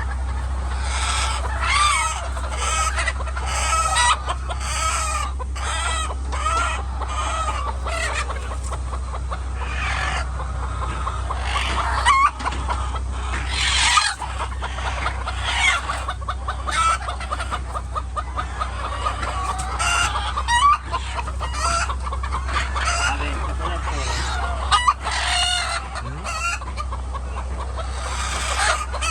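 A flock of chickens clucking and calling over one another without a break, with crowing at times. A steady low hum runs underneath.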